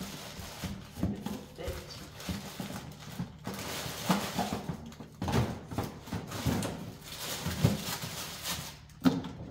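Frozen food packages and containers being moved and set down in a freezer: irregular knocks and clunks, a few a second, with packaging rustling.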